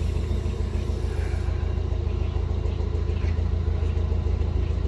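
Narrowboat's diesel engine running steadily under way, a low, even hum.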